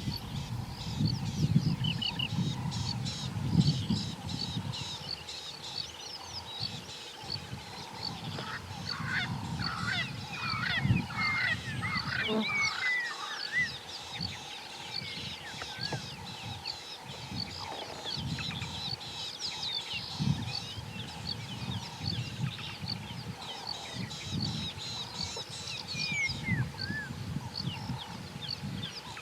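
Wild birds calling in a chorus of many short chirps and whistled sweeps, busiest about eight to thirteen seconds in, over a low rumble that is loudest in the first four seconds.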